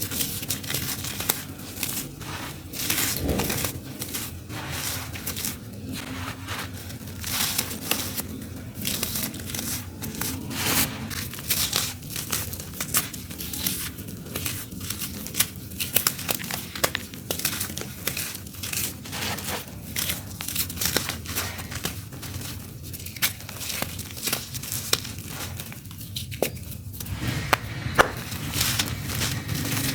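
Dry, crunchy clumps of earthy dirt crumbled by hand onto a floor: a continuous, irregular crunching and crackling. A low steady hum sits underneath.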